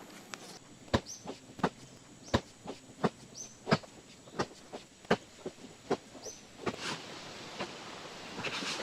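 A series of sharp knocks or strikes, irregularly spaced about one every half second to a second, with a few short high chirps between them.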